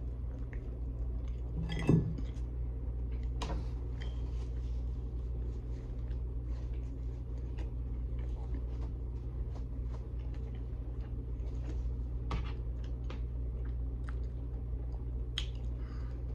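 Chewing a mouthful of steak-and-egg sandwich on French bread: scattered small mouth clicks and smacks over a steady low hum, with a louder sharp click about two seconds in.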